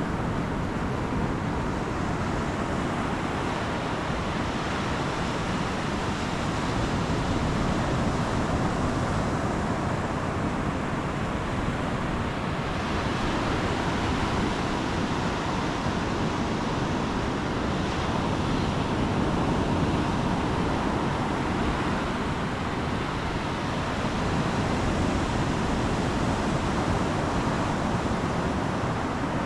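Atlantic surf washing onto the beach, a steady rush of breaking waves that swells gently every several seconds, with some wind on the microphone.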